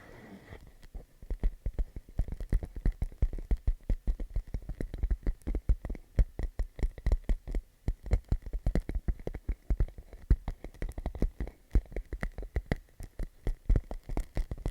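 Fingertips tapping quickly and irregularly on a clear plastic pouch, a dense patter of small knocks starting about a second in, like popcorn popping.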